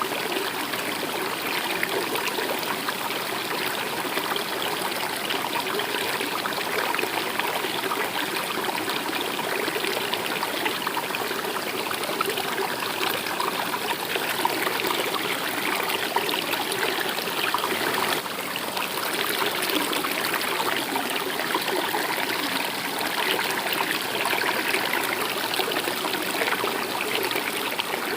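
A stream running steadily, water babbling and trickling over rocks in an even, continuous rush.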